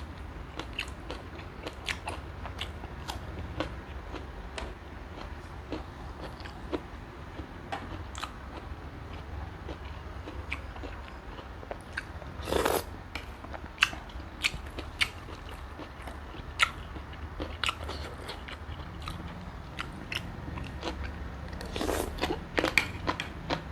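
A person biting into and chewing giant river prawns, with many short crunches and crackles of shell. There is a louder crunch about halfway through and a burst of loud crunches near the end.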